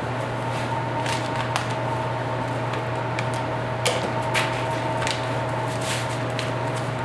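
Steady machine hum with two faint steady tones, broken by scattered light clicks and scrapes of hand work, the sharpest about four seconds in.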